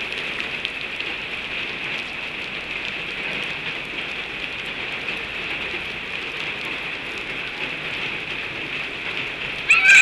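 Steady rain falling, an even hiss throughout. Near the end, a brief loud high-pitched squeal.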